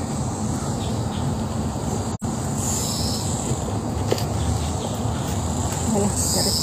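A bird's short high call, heard twice about three and a half seconds apart, over a steady rushing noise.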